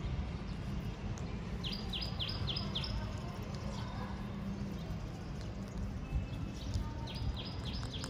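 A bird calling: two runs of about five quick, falling chirps, the first about two seconds in and the second near the end, over a steady low rumble.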